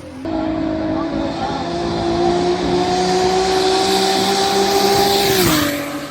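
A drag racing car's engine at full throttle down the strip, its note holding high and slowly climbing. Near the end the pitch drops sharply as the car goes past, and the sound fades.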